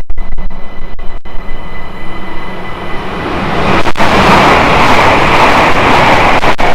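A train passing at speed close by: a loud rushing noise that builds from about three seconds in and stays loud to the end.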